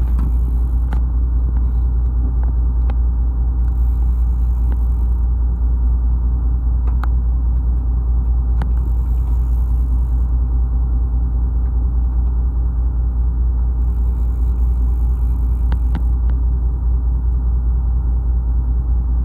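Fishing boat's engine running with a steady, deep rumble, a few faint ticks over it.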